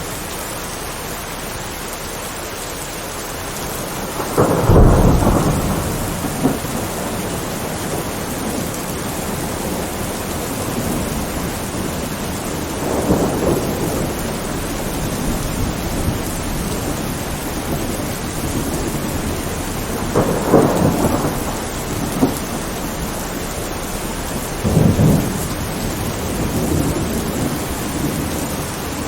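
Steady rain with thunder rumbling four times, the loudest peal about five seconds in and three weaker rolls later.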